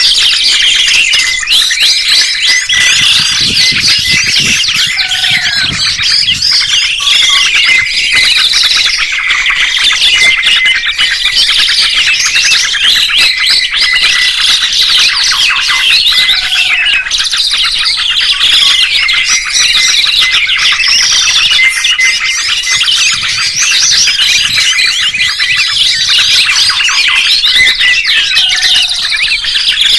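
Dense chorus of songbirds chirping and twittering at once, many rapid high calls overlapping without a break.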